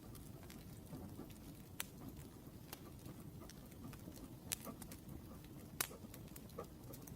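Wood fire crackling: a soft steady rumble with scattered sharp pops and snaps, a few louder ones around the middle and about six seconds in.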